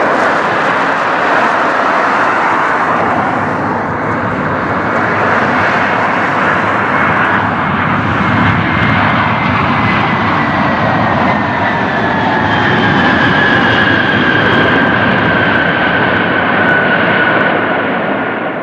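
Jet airliner's engines, loud and steady, with a whining tone that falls slowly in pitch through the second half as the aircraft passes.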